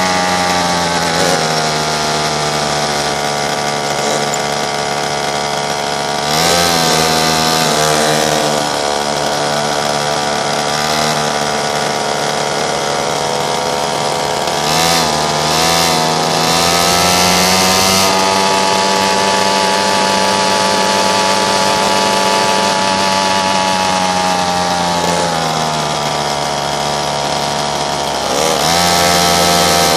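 Pocket bike's small engine running at high revs, buzzing steadily, with the revs dipping and picking up again a few times as the throttle is eased and reopened.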